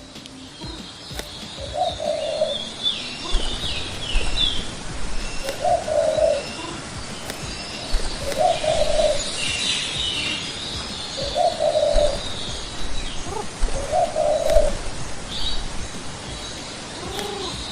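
A pigeon-family bird cooing: five short, low coos about three seconds apart, with small songbirds chirping high and busily alongside.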